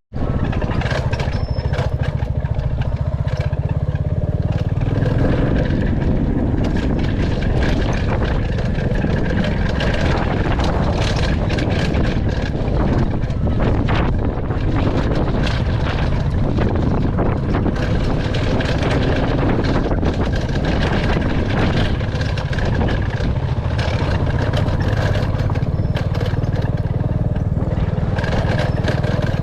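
Royal Enfield Classic 350's single-cylinder engine running steadily while riding, with frequent short knocks and rattles throughout.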